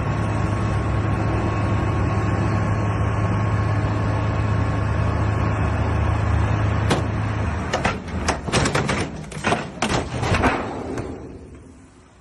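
A vehicle engine running steadily, then a quick run of sharp knocks and clatter about eight seconds in, after which the sound drops away.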